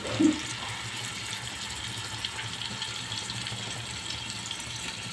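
Vegetable masala sizzling steadily in oil in a large aluminium pot while yogurt is spooned in. A brief low sound comes just after the start.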